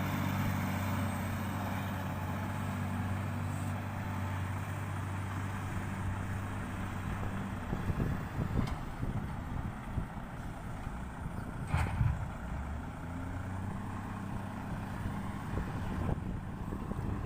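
Heavy diesel engine running steadily, with a few sharp knocks: several about eight seconds in and the loudest about twelve seconds in.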